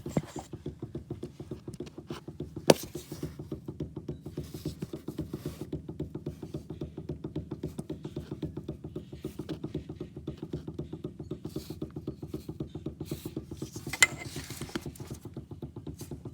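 Steering rack of a 2010 Nissan Maxima clunking in a fast, even rhythm, several knocks a second, as the steering wheel is rocked quickly back and forth, with two sharper, louder knocks about three seconds in and near the end. The owner takes the clunk, along with play in the steering wheel, as a sign of a worn rack and pinion.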